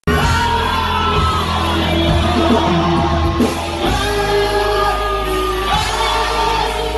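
Rock band playing live, with vocals over electric guitars, bass and drums, heard loud and reverberant from the audience in a club hall. The music cuts in abruptly at the start.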